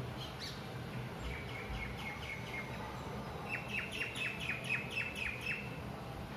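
A small bird chirping in two runs of quick, repeated high notes, each note dropping in pitch. The second run, about halfway through, is louder.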